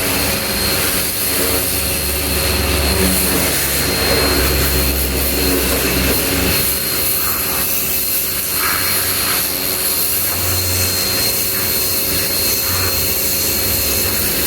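Ava P25 high-pressure washer running and spraying: a loud, steady hiss of the water jet over the machine's motor hum, with a constant high tone.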